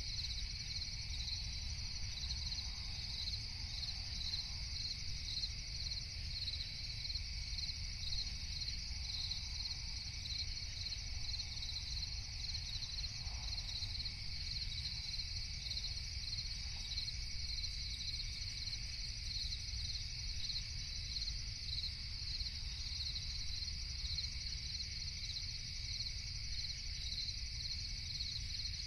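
Crickets chirping steadily in a night chorus, a fast, even pulsing, over a low steady rumble.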